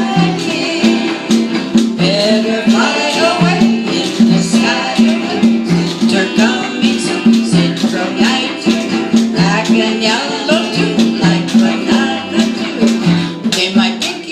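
Small band playing an upbeat island-style tune, congas and washboard keeping the rhythm over a steady repeating bass line and plucked strings.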